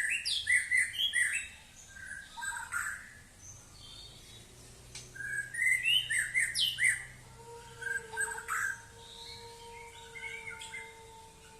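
White-rumped shama (murai batu) singing in bursts of quick, varied whistled and chattering phrases, with short pauses between them. A faint steady tone sets in about two-thirds of the way through.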